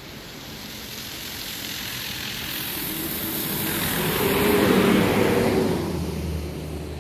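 A motor vehicle passes by, growing steadily louder to a peak about five seconds in, then fading as its hum drops in pitch.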